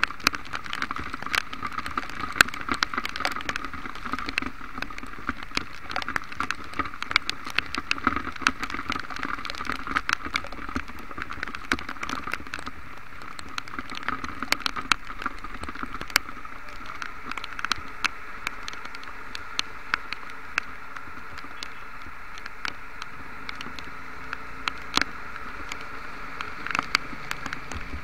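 Heavy rain on a moving motorcycle: dense, irregular sharp raindrop ticks striking close to the microphone over a steady hiss of rain and wet road, with the bike's running hum underneath.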